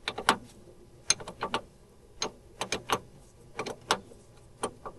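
Hand ratchet or metal hand tools clicking sharply in short groups of a few clicks, a group about every second.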